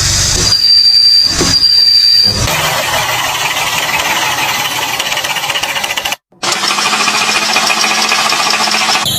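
Vehicle noises in short back-to-back clips: a steady high-pitched squeal for about two and a half seconds, then harsher, noisier mechanical sounds, broken by an abrupt cut about six seconds in.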